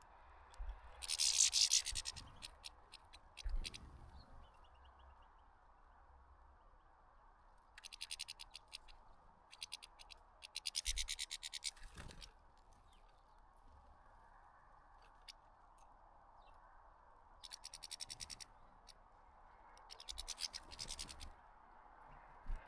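Goldfinches at a bird feeder: five short bursts, each about a second long, of rapid scratchy rasping, over a faint steady background hum.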